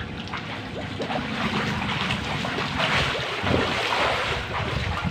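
Swimming-pool water sloshing and lapping as people wade and move an inflatable ring through it, a steady noisy wash with small splashes.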